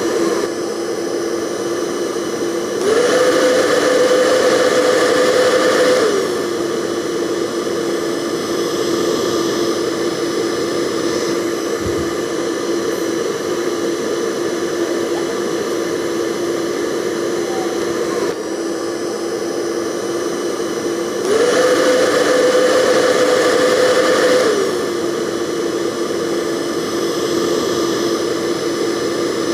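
Hair dryer running with a steady motor whine over a rush of air. Twice its pitch rises and it grows louder for about three seconds, as if switched to a higher speed, then it falls back to the lower setting.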